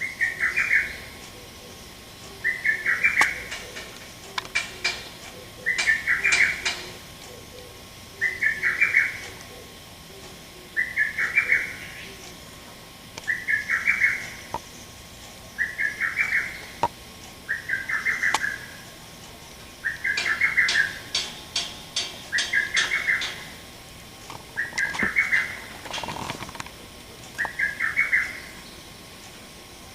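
Male lesser cuckoo (hototogisu) singing its sharp "tokkyo kyoka kyoku" phrase, each about a second long, repeated about every two and a half seconds, about a dozen times.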